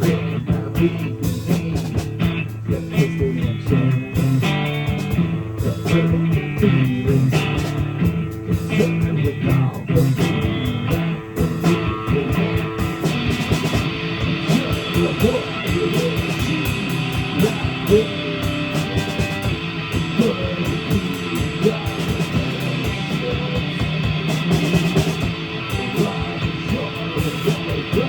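Live rock band playing an instrumental passage: electric guitars over drum kit, with a brighter, sustained guitar part coming in about halfway through.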